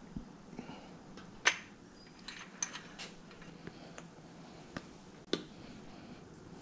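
Light metallic clicks and taps, about seven or eight spaced irregularly, the loudest about a second and a half in, from small engine parts such as bearings being handled and set in place on the block.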